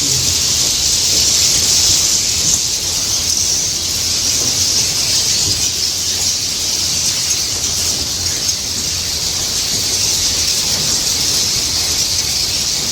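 Dense, steady chatter of many swiftlets roosting together, a continuous high-pitched twittering.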